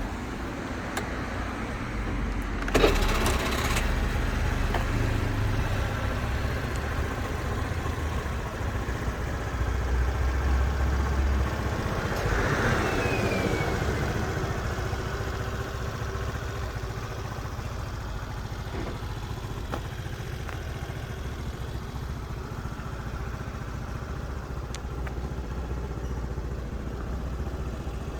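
Honda Spacy 100 scooter's single-cylinder four-stroke engine starting about three seconds in. It runs a little louder for a moment around ten seconds in, then settles into a steady idle.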